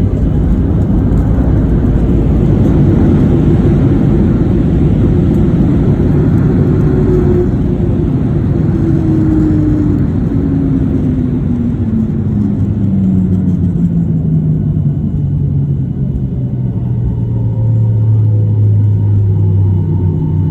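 Airliner cabin noise during the landing rollout: a loud rumble with an engine tone that falls steadily in pitch over the second half as the jet engines spool down.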